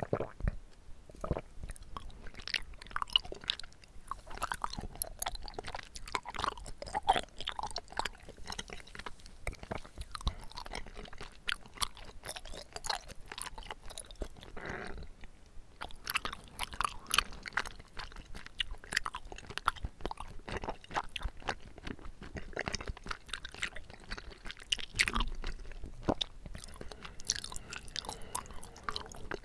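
Close-miked chewing of chewy tapioca pearls from bubble tea: continuous wet, irregular mouth clicks and smacks.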